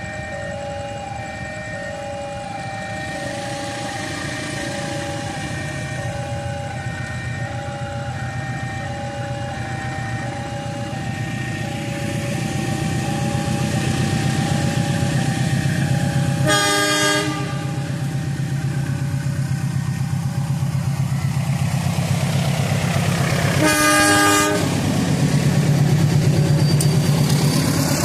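A train approaches and passes with a growing low rumble and sounds its horn twice, in short blasts about seven seconds apart. An alternating two-note electronic warning tone rings steadily through the first half.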